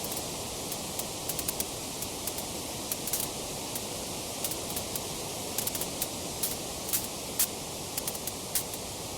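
Wood fire crackling: a steady hiss with frequent small, sharp pops and snaps scattered through it, a few of them louder in the second half.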